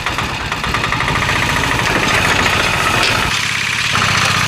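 An engine idling with a fast, even putter. The low rumble drops away for a moment about three seconds in, then comes back.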